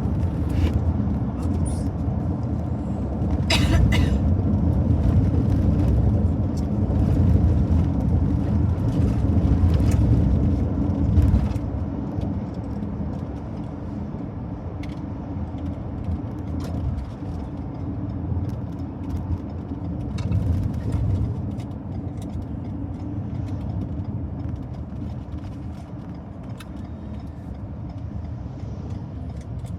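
A car driving, heard from inside the cabin: a steady low road and engine rumble, louder for the first dozen seconds and then easing off, with a few short clicks about four seconds in.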